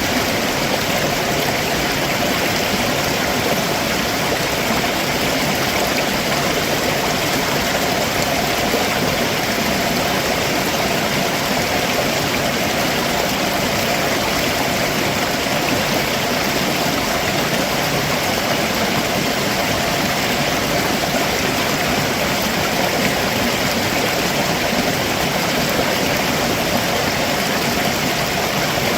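A rocky stream below a waterfall, water rushing and splashing over stones in a steady, unbroken rush.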